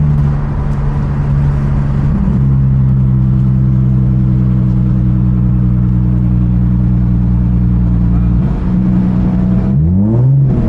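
Nissan 350Z's 3.5-litre V6, fitted with an aftermarket exhaust (high-flow cats, Y-pipe, ISR blast pipes), droning steadily while driving. Its pitch drops slightly about two seconds in, and near the end the revs climb and fall as the car accelerates.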